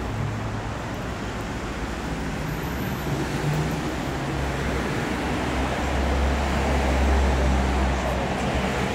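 Street traffic: vehicles passing on a busy road, with a low engine rumble that builds about halfway through and is loudest near the end.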